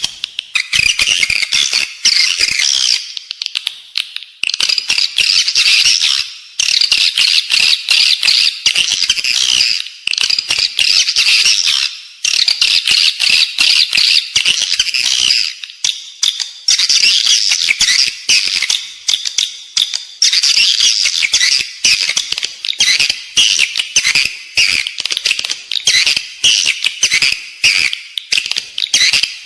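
Edible-nest swiftlets' rapid, dense chittering twitter, the 'inside-building' lure call played to draw swiftlets into a nest house. It runs almost without a break, easing off briefly every few seconds.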